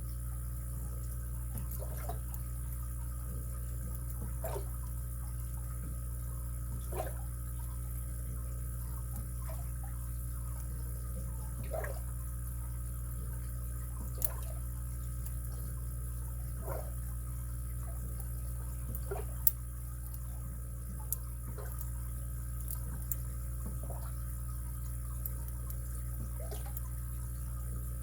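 Lock pick and tension wrench working the pins of a padlock: scattered small clicks and short scrapes every second or two, the sharpest a little past halfway, over a steady low hum.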